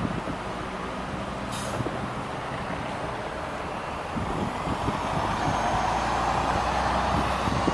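Inside a Scania OmniLink CL94UB city bus: a short pneumatic air hiss about a second and a half in, then the diesel engine builds up and runs louder as the bus pulls away.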